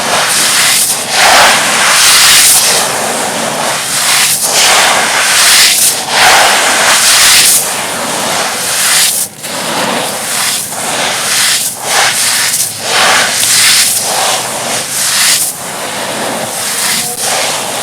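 Dry, dusty, stony chunks being crumbled and crushed, a dense run of gritty crunches and crackles with brief pauses between squeezes.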